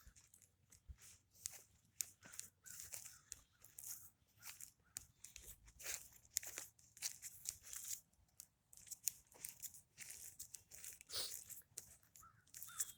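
Footsteps crunching and rustling on dry ground and vegetation: faint, irregular crackling steps throughout.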